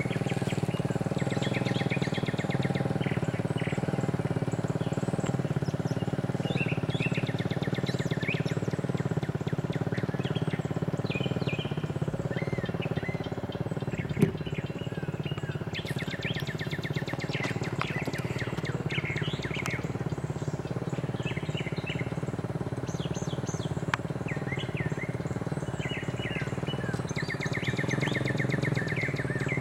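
Amtrak Auto Train rolling past with a steady low rumble and hum, birds chirping over it, and a single sharp click about 14 seconds in.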